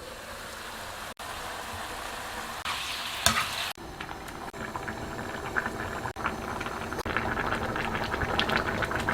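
Food cooking on the stove, sizzling and bubbling, in short pieces broken by several abrupt cuts. The crackle grows busier after the halfway point.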